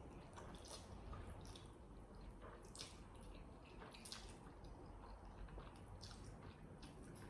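Faint wet mouth sounds of chewing instant noodles: a few soft, irregular smacks and squishes.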